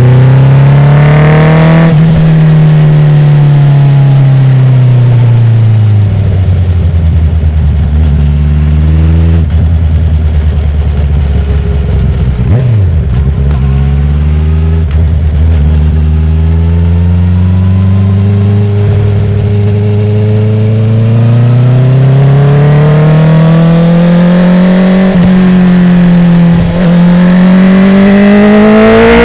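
2019 Honda CB650R's inline-four, uncorked through an Akrapovic titanium full exhaust with the dB killer removed, under way at speed. The revs rise briefly, then fall away over a few seconds. They hold low and steady for a stretch, then climb steadily, with one brief dip near the end.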